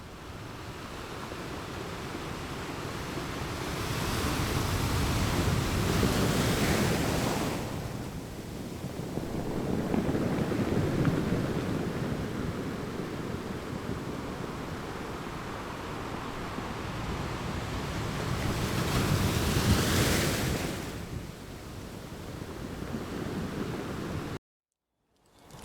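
Ocean waves washing in, with two big surges of rushing water and a steady wash between them. Cuts off abruptly near the end.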